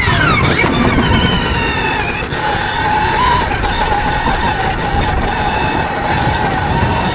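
Stark Varg electric motocross bike's motor and drivetrain whining, the pitch falling sharply at the start and then holding with slow rises and dips, over a steady low rumble.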